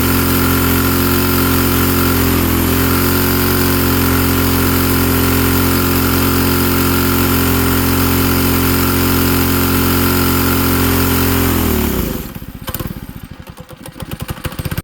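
Mini bike's small single-cylinder four-stroke engine running steadily, then shut off about twelve seconds in, slowing through its last separate firing strokes. The owner thinks the engine needs rejetting.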